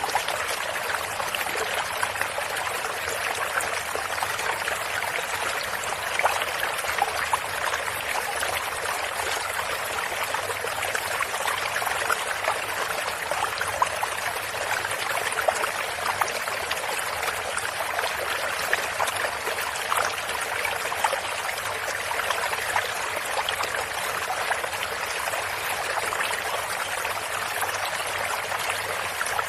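A stream of running water flowing and trickling steadily, with many small splashes and drips.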